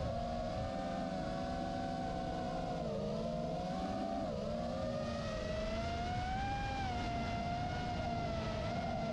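Electric motor and propeller of a large foam RC airplane in flight, a steady whine that slowly rises and falls in pitch, over a low rumble.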